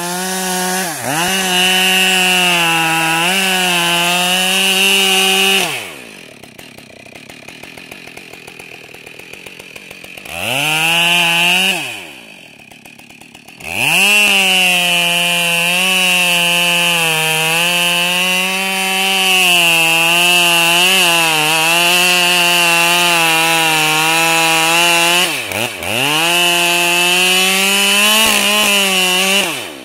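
Husqvarna 572 XP chainsaw, a 70 cc class two-stroke, running at full throttle through cuts in wood: a long high run, a drop to idle, a short rev, then a second long run with a brief dip in pitch near the end.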